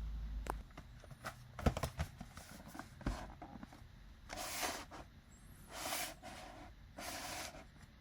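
Unboxing sounds from packaging being handled: a few light knocks and clicks, then a run of rustling swishes about every second and a half.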